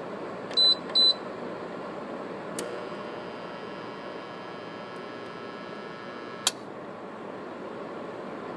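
GE window air conditioner: two short control-panel beeps, then a click about two and a half seconds in as the compressor is switched on, a steady hum for about four seconds while the compressor, whose rotor is locked, fails to start, and a sharp click as it cuts off. A steady fan noise runs underneath.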